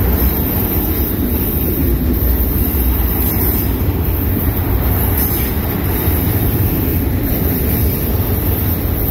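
Freight train of autorack cars rolling past at close range: a steady, loud rumble of wheels on rail.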